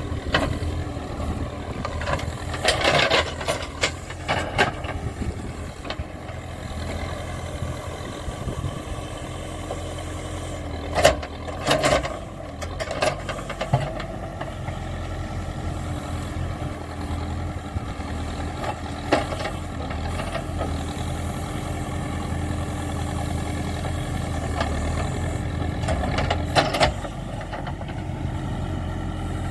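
Backhoe loader's diesel engine running steadily at work, with sharp clanks and rattles of metal several times, loudest about a third of the way in and again near the end.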